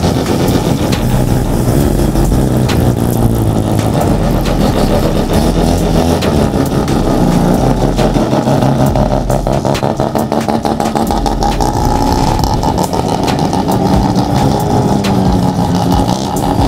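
Mazda Wankel rotary engine running with a rapid, choppy pulsing exhaust note.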